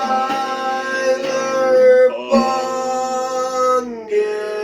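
Song with a voice holding long drawn-out notes over acoustic guitar. The pitch slides down near the end into a new held note.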